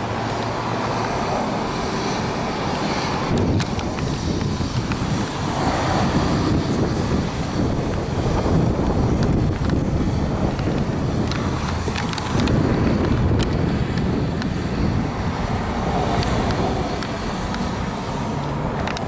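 Wind buffeting the microphone over a steady rumble of road traffic, swelling and easing a few times.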